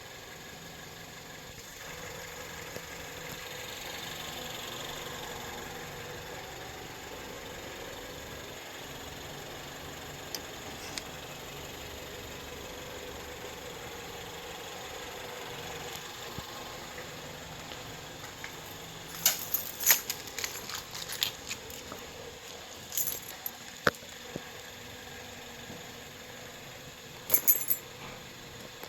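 Car engine idling steadily after a cold start, the car having sat for about two weeks. Sharp clicks and rattles come in clusters two thirds of the way through and again near the end.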